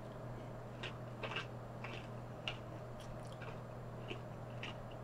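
A person chewing food with the mouth close to the microphone: faint, irregular wet smacks and clicks, about one or two a second.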